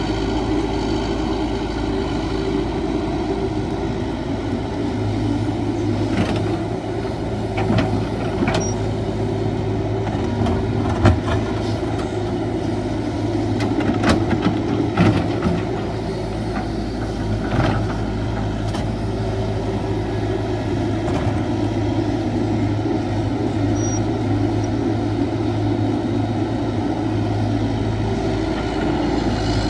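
Cat 312 hydraulic excavator's diesel engine running steadily while it digs. A spell of knocks and clatter from the working machine falls in the middle.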